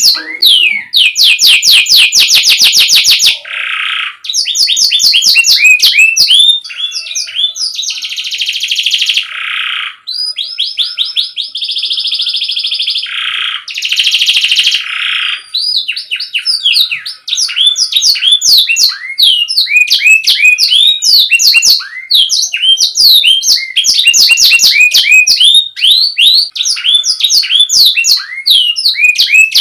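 Domestic canary singing a long, clear song. It opens with a fast run of repeated notes, moves into several sustained buzzy rolls, and from about halfway through breaks into quick rising chirps.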